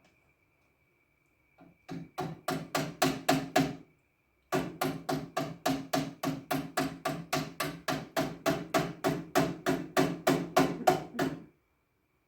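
Rapid, even knocking at about four strokes a second: a short run of about eight knocks, a pause of under a second, then a longer run that stops suddenly.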